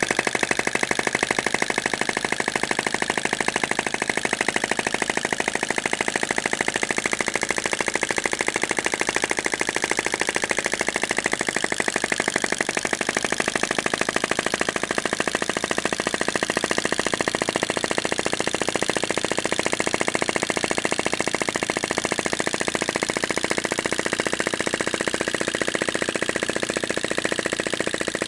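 Small flame-gulping (vacuum) engine running steadily at speed, giving a rapid, even clatter.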